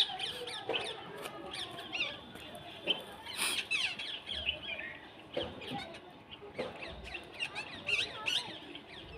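Many birds chirping at once in a dense, overlapping chorus of short rising and falling calls, with a few sharper louder notes scattered through.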